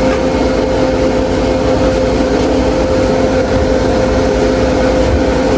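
A steady mechanical hum with an even low drone that holds constant throughout, as from a running engine or motor.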